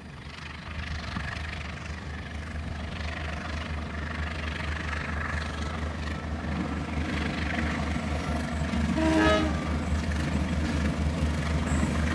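Diesel train locomotive approaching, its engine drone steady and the rumble growing louder, with a short toot of the horn about nine seconds in.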